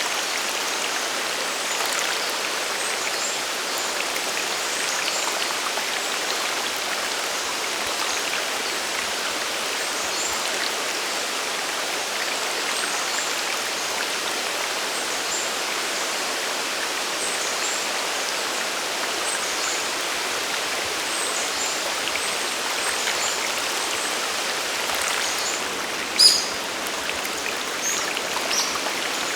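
Steady rush of a mountain waterfall and stream, with faint, short high bird chirps scattered over it and one brief, louder high sound near the end.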